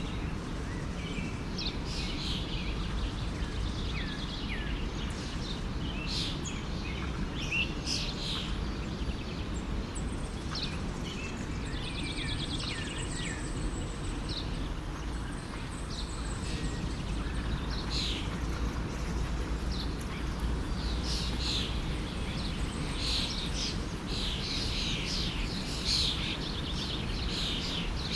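Many birds chirping and calling over the steady rush of a forest stream. The chirping grows busier in the last several seconds.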